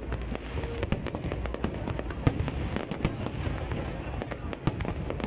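Aerial firework shells bursting in quick succession: many sharp bangs and crackles over a steady low rumble, the loudest bang a little over two seconds in.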